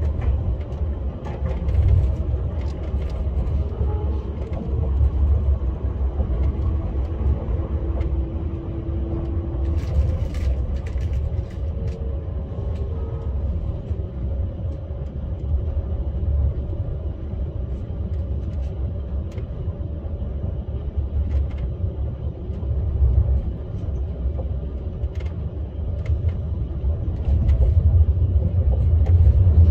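KTX high-speed train running: a steady low rumble with scattered faint clicks, growing louder over the last few seconds.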